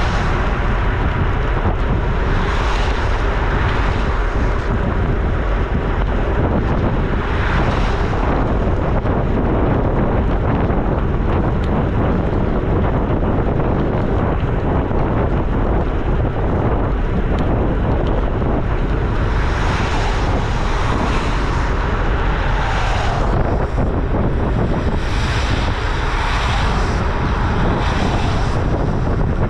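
Wind buffeting the microphone of a camera on a moving bicycle: a loud, steady roar with a heavy low rumble, swelling brighter several times.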